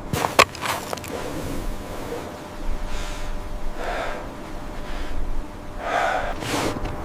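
Two breaths, about two seconds apart, over a steady hiss, after a few sharp clicks near the start.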